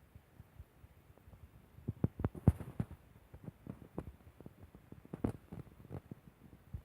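Raindrops tapping irregularly on a nearby surface, a quick cluster of taps about two seconds in and another around five seconds, with no steady rain hiss.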